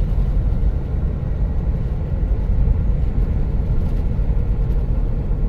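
Steady low rumble of a car driving on the road, heard from inside the cabin: tyre and road noise with the engine underneath.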